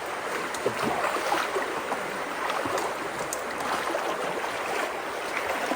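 Fast-flowing creek water rushing steadily, with a few small splashes.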